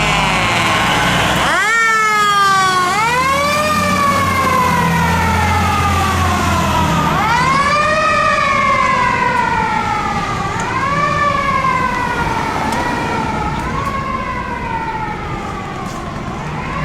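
Fire engine siren on a 2003 Seagrave Marauder, sounding over and over: each cycle climbs quickly in pitch and then slides slowly back down, about six times. Engine rumble runs underneath.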